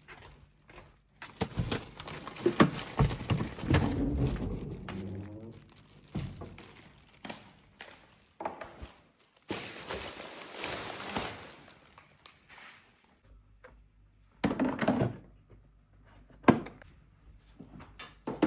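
Household objects being handled: several knocks and thunks between stretches of rustling and scraping, with one sharp knock near the end.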